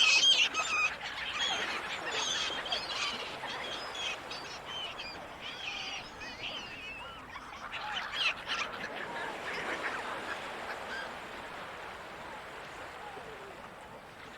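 Seagulls calling over the ocean: a flurry of overlapping high cries, loudest at the start, that thin out and stop about ten seconds in, over a steady wash of sea noise.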